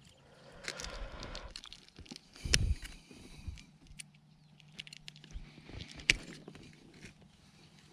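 Handling noises from a large bass being held and turned over in a boat: rustling about a second in, a heavy thump about two and a half seconds in, and a sharp click near six seconds, over a faint low steady hum.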